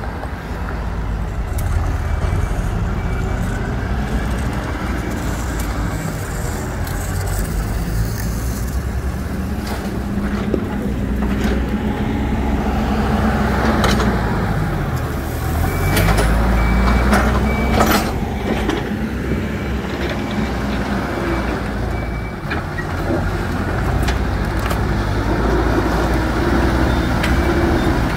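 Hidromek 102S backhoe loader's diesel engine working under load. Its revs drop and pick up again about halfway through, with sharp metal clanks around then.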